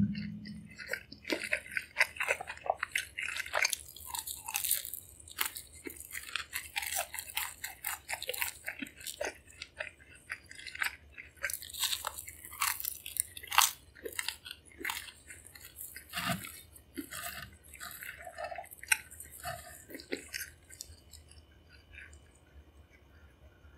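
Chewing and crunching of a sugar-coated churro: a loud sharp crack at the very start, then a dense run of crisp crackles and wet mouth clicks that thins out to sparser chewing in the last several seconds.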